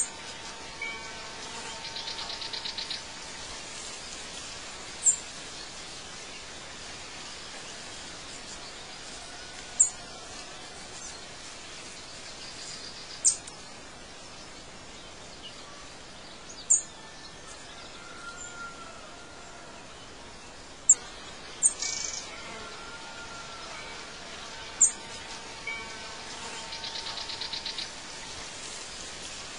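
Birds chirping over a steady outdoor ambience hiss: short, sharp, high chirps every few seconds, a buzzy trill about two seconds in and again near the end, and a few softer, lower calls.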